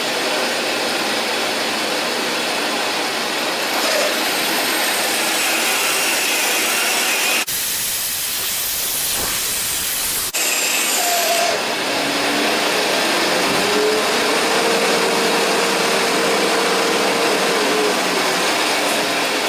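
A power tool running with a steady, loud hissing noise. The sound changes abruptly for about three seconds in the middle, then the same running noise returns.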